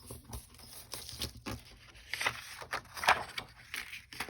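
A sheet of paper being handled and cut in half: scattered rustles and light taps, the loudest about three seconds in.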